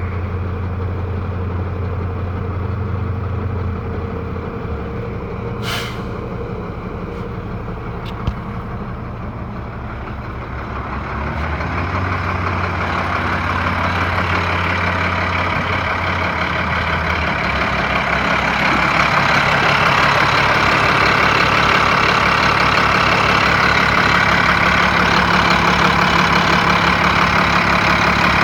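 Diesel engine of a 2012 Freightliner M2 106 dump truck running, steady at first, then growing louder and harsher from about ten seconds in and holding there. A short air hiss about six seconds in.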